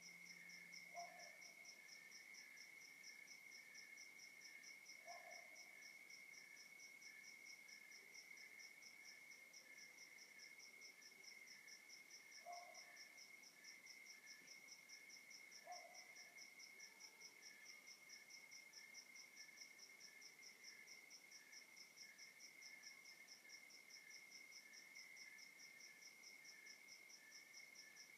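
Faint night chorus of crickets and other insects: one steady high trill alongside evenly pulsing chirps, all without a break. Four short, lower calls stand out from it, about 1, 5, 12 and 16 seconds in.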